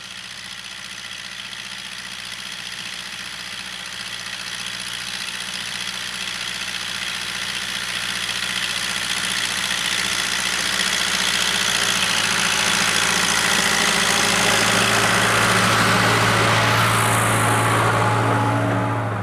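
Case 580K loader backhoe's diesel engine running at a steady speed, growing steadily louder.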